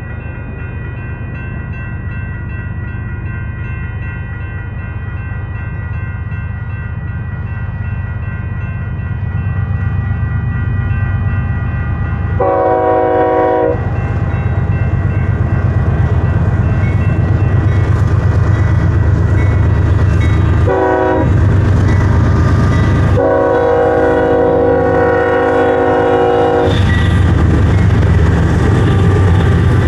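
Railroad crossing bell ringing steadily while a Union Pacific coal train's diesel locomotives approach, their rumble growing louder. The lead locomotive sounds its horn for the crossing: a long blast about 12 seconds in, a short one near 21 seconds, then another long one. The locomotives pass close by near the end.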